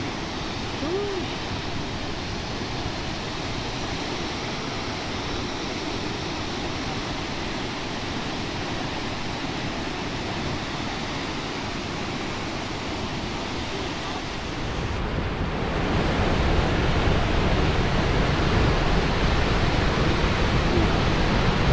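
Steady rush of flowing or falling water. It grows louder and deeper about fifteen seconds in.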